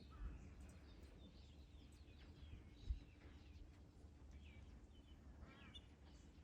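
Faint birds chirping and singing outdoors, many short calls overlapping, over a steady low rumble. A single dull low thump about three seconds in.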